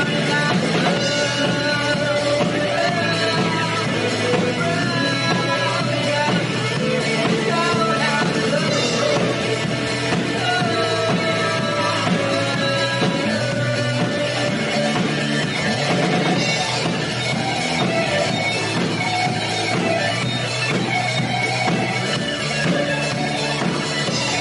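Rock band playing a song live, with singing over electric guitars and drums at a steady, loud level.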